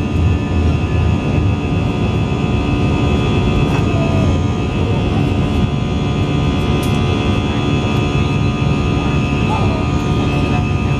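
Jet airliner's engines heard from inside the cabin: a steady low rumble with several constant whining tones.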